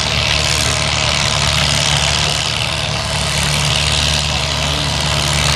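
A pulling tractor's engine running steadily at idle, holding an even low hum with no revving.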